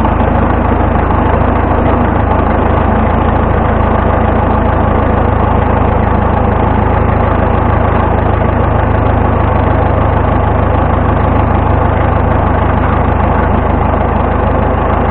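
Vintage tractor engine running steadily at an even speed, with a strong low drone.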